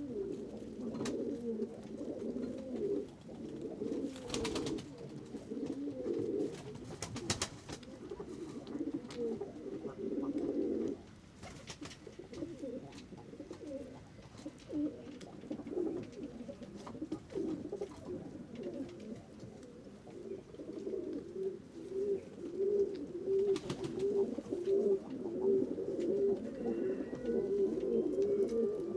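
Several pigeons cooing continuously and overlapping, with a few brief sharp clatters. Near the end the coos fall into an even run of about two a second.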